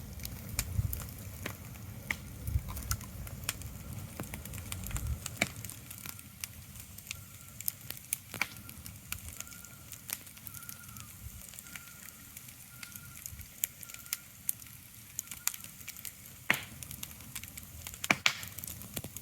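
Irregular sharp crackles and pops over a soft steady hiss, with a low rumble in the first five seconds. A faint high note repeats through the middle.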